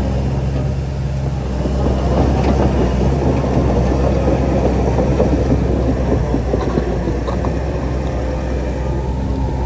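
Shantui DH-17C3 crawler bulldozer working: its diesel engine runs steadily while the steel tracks clatter and grind, the clatter growing denser about a second and a half in.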